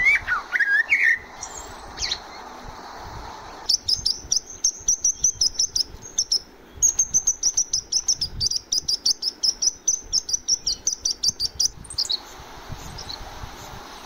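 House sparrows chirping: a fast, even run of high chirps, several a second, from about four seconds in until about twelve seconds. A short gliding whistled call comes at the very start.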